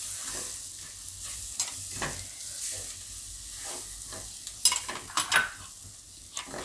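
Silicone spatula stirring and scraping a spice paste through gram flour frying in hot oil in a wok, over a steady sizzle. A few sharp clicks come a little over halfway through.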